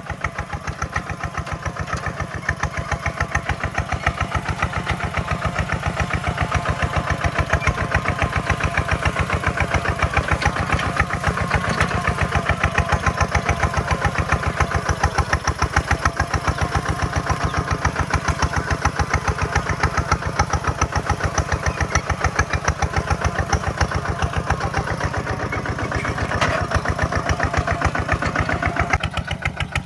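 Kubota single-cylinder diesel engine (ZT155 or RT180 type) running with a rapid, even firing beat. It grows louder over the first several seconds and then holds steady.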